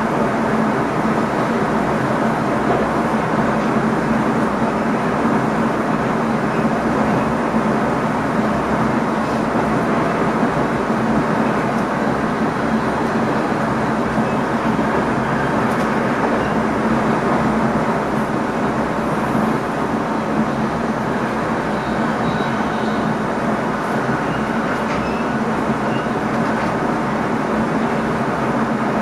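Steady running noise inside the driver's cab of an NS ICM (Koploper) electric multiple unit: wheels rolling on the rails with a constant low hum underneath, and a few faint ticks in the second half.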